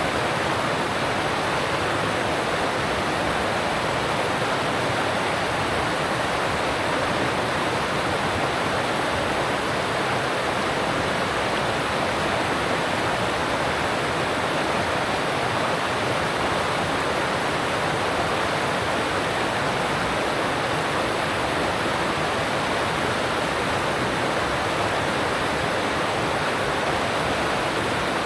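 Alpine mountain stream rushing over rocks: a steady, unbroken rush of water.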